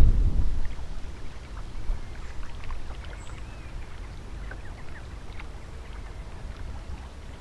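Water around a small sailing dinghy, with the odd faint splish and splosh of fish at the surface among river weed. A low rumble of wind or a bump on the microphone is loudest in the first half second.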